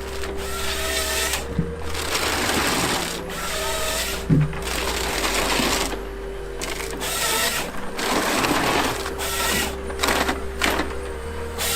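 Wood-processing machinery running, with about six surges of loud, dense cutting or grinding noise over a steady engine drone, and a sharp knock about four seconds in.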